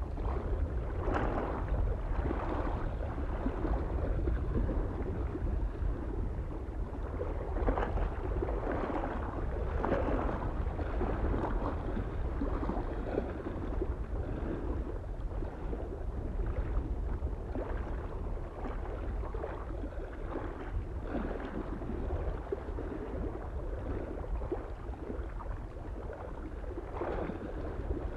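Small waves lapping irregularly against a mountain lake shore, each wash swelling and fading every second or two, over a steady low rumble of wind.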